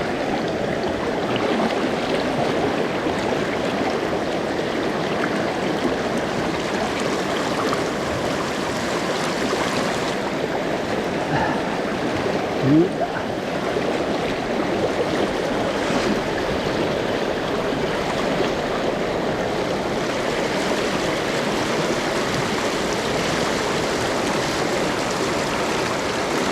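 A mountain river rushing steadily over rocks, with one short rising sound about halfway through.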